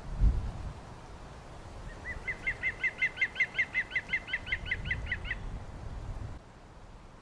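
A bird sings a fast trill of about twenty short whistled notes, each sliding down in pitch, about six a second for some three seconds, starting about two seconds in. A thump just at the start is the loudest sound, over a low rumble that stops abruptly near the end.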